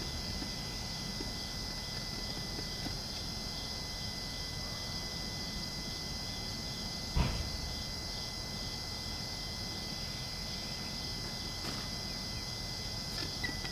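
Steady low background hiss with faint, thin, high-pitched tones, and a single short knock about seven seconds in.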